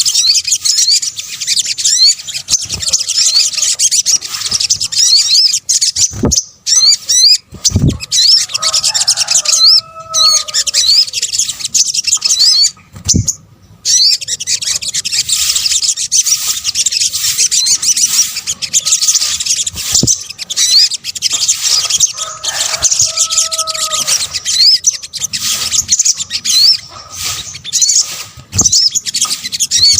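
Sunbirds calling, a fast, shrill string of high chirps and trills repeated almost without pause: a looped lure recording. Twice a lower, slower two-note call comes in over it, and a few sharp clicks and brief gaps break the stream.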